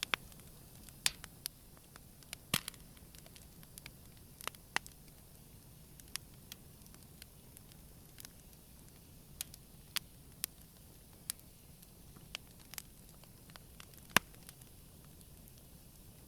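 Wood campfire burning gently, with irregular sharp crackles and pops over a soft steady hiss, the loudest pops about a second in, around two and a half seconds in, and near the end.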